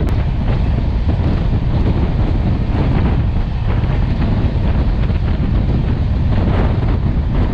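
Wind buffeting the microphone over the steady low rumble of a passenger train running at speed, recorded from the open door of a moving coach.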